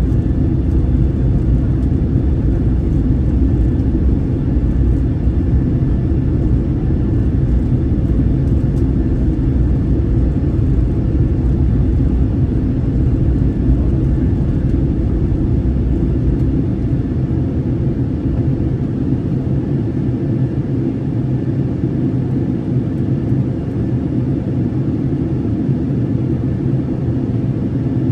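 Steady low roar of an airplane cabin in flight: engine and airflow noise heard from inside. The deepest part of the rumble eases slightly a little past halfway.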